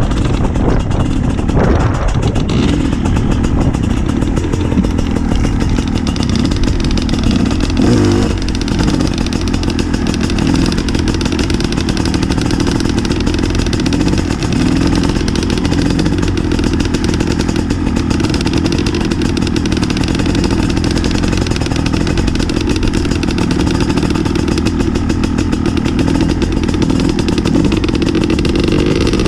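Gas Gas EC 250 two-stroke enduro motorcycles being ridden off-road, the engine running steadily and loudly at trail-riding revs.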